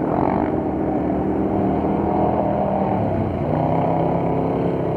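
Several ATV engines running together, steady, with their pitch dropping slightly about three and a half seconds in.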